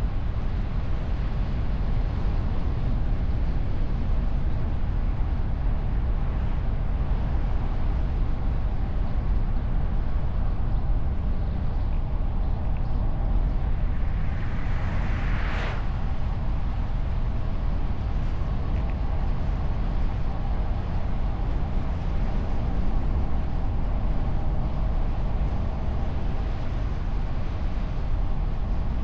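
Wind and road noise of a moving car, picked up by a camera microphone mounted on the bonnet behind a wind muffler: a steady low rumble of wind and tyres. About fifteen seconds in, a whoosh swells and cuts off sharply.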